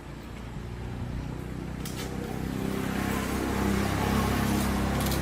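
An engine running steadily with a low, even hum, growing louder over the first few seconds and then holding.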